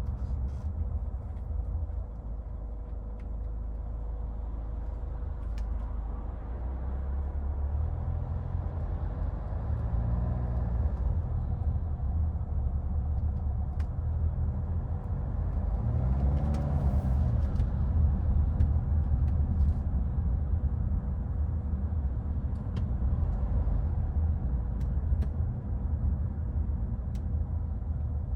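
A 2014 Hyundai Santa Fe driving in city traffic: a steady low rumble of engine and road, with the engine note rising and falling twice, around ten and sixteen seconds in, as the car pulls away.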